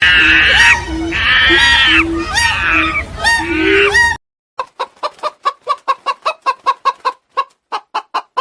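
A series of short pitched animal calls that break off abruptly about four seconds in. After a brief silence comes a fast run of short, evenly spaced pulses, about five a second.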